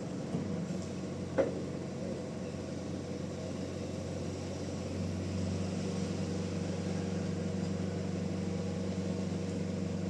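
Bandsaw mill's engine running steadily, with one sharp knock about a second and a half in and the hum getting a little louder about halfway through.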